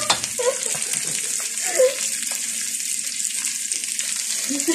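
Chicken wings and sliced onions sizzling steadily in hot oil in a wok while being stirred with a spatula. A short vocal sound comes about two seconds in.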